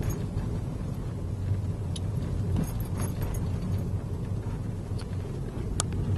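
Steady low rumble of a car's engine and tyres heard from inside the cabin while driving, with a sharp click near the end.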